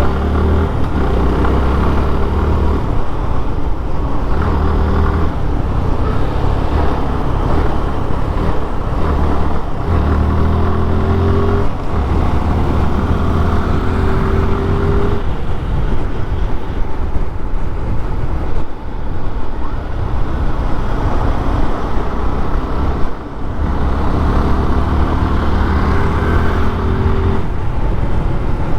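Suzuki Gixxer motorcycle's single-cylinder engine under way, its pitch climbing in several stretches of acceleration with breaks between them, over steady wind and road noise.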